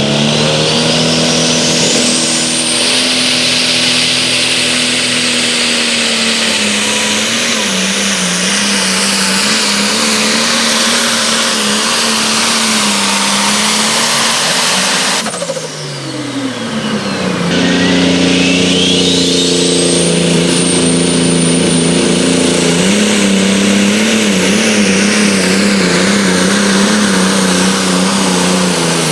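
Pulling vehicle's engine running at full power under the load of a pulling sled, with a high whine that rises as it comes up to speed. About halfway through it drops off with a falling pitch, then a second run climbs back to full power with another rising whine.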